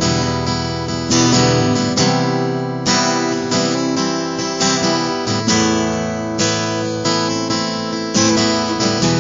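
Acoustic guitar strumming chords in a steady rhythm, with no singing, as an instrumental passage between verses of a song.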